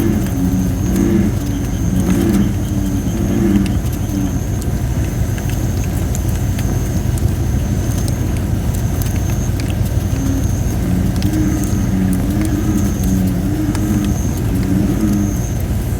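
Campfire of thin, not fully dried red robin (Photinia) wood burning, with scattered crackles and a thin, high hiss from the damp wood that comes and goes. Over a steady low rumble, bullfrogs call in deep, repeated croaks, in a bout at the start and again from about ten seconds in.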